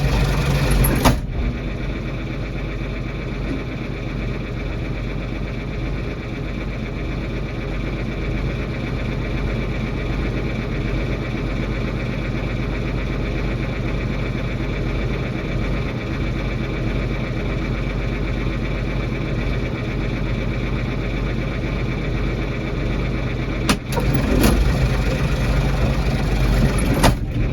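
Diesel engine of a farm tractor running steadily, with a couple of sharp knocks and a louder stretch near the end.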